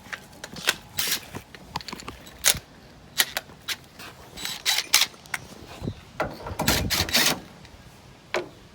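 Tools and hardware being handled and set down: a string of irregular clicks, clacks and knocks, with a longer scraping rattle about six and a half seconds in.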